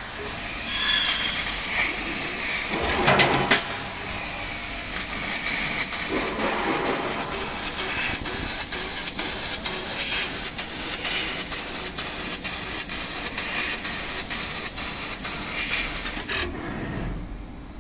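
CNC laser cutting machine cutting sheet metal: a steady hiss of the assist gas through the cutting head, with fine rapid ticking. The hiss surges briefly about 3 s in and drops away about a second before the end.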